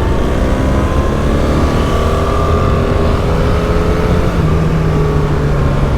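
BMW GS adventure motorcycle's engine running under steady throttle at speed on track, heard onboard over wind rush. The engine pitch shifts slightly up and down.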